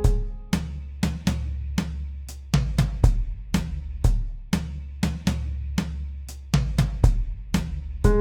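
A drum-kit beat with kick, snare and hi-hat hits over a steady low bass line, the other instruments dropped out.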